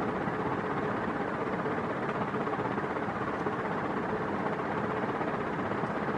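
1987 NuTone Proline 48-inch industrial ceiling fan running on its highest speed: a steady rush of air from the blades with a faint, even motor hum.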